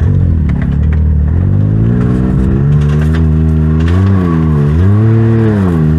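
Side-by-side UTV engine revving hard under load, the revs climbing over the first two seconds, then dipping and rising again several times: the driver is trying to back the stuck machine out.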